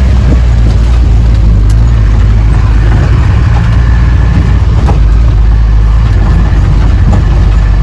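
Jeep's engine and the jolting ride over a rough track, heard from inside: a loud, steady low rumble with a few scattered knocks.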